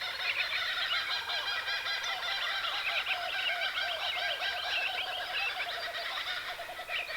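A flock of red-tailed black-cockatoos calling: many short calls overlap in a steady, continuous chatter.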